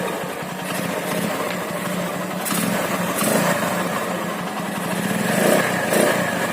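Single-cylinder Honda GL engine in a CB-style motorcycle running through a replaced aftermarket exhaust, with an even, steady putter, swelling twice with short throttle blips near the end.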